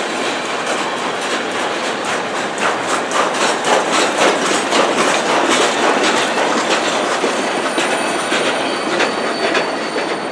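Freight train cars rolling past, the wheels clicking rapidly over the rails with a faint thin high squeal.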